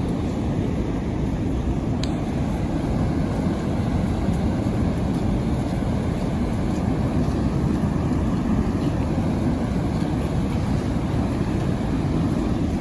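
Steady low roar of Niagara Falls, a continuous rush of falling water that holds the same level throughout.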